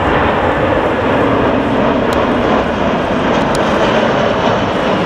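Jet airliner engines, loud and steady.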